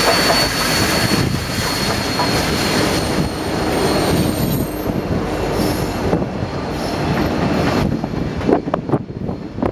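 Union Pacific 844, a 4-8-4 steam locomotive, with its tender and a trailing diesel unit rolling past at close range: a steady rumble of wheels on rail. A thin high wheel squeal sounds over it and fades out about halfway, and a few sharp clicks of wheels over rail joints come near the end.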